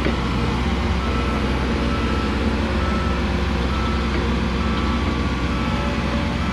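Heavy diesel truck engine running steadily while its backup alarm beeps about once a second as it reverses.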